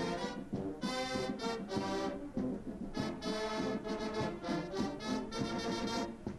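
Brass band music playing a slow piece of sustained chords.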